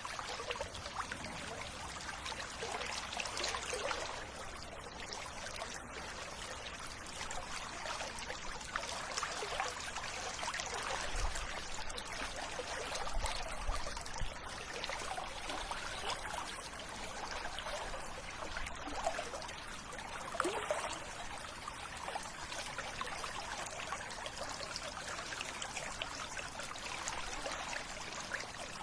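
River water running steadily, a continuous trickling flow.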